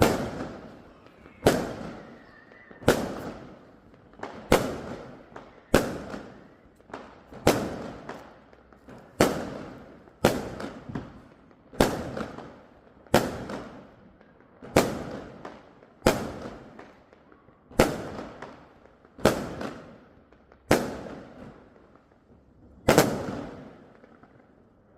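Fireworks exploding in a steady series of sharp bangs, about one every second and a half, each fading away in an echo.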